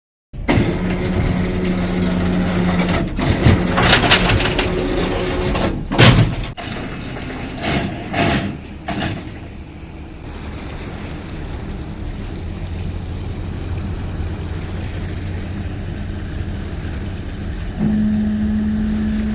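A boat's engine running with a steady hum. Loud clatters and knocks come in the first half, then the running evens out, and a second steady tone joins near the end.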